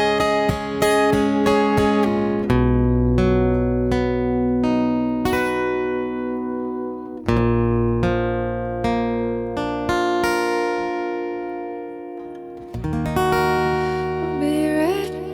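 Guitar picking a song intro, single notes ringing out one after another over held low notes. A singing voice comes in near the end.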